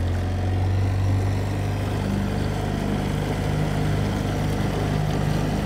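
Small boat's motor running steadily at low speed, carrying the boat across the water.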